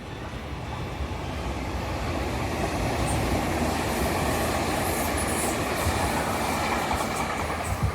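Train on the Tobu Isesaki Line passing on the tracks. Its running noise builds over the first couple of seconds, then holds steady and loud, with a few brief high squeals from the wheels.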